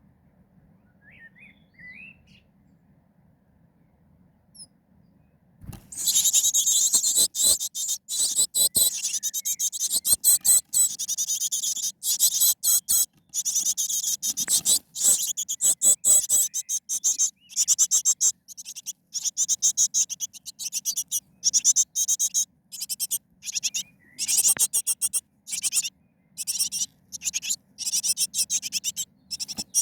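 Nestling birds giving high-pitched begging calls. A few faint chirps come first, then about six seconds in a loud, rapid, pulsing chorus of shrill calls starts and keeps going in quick bursts.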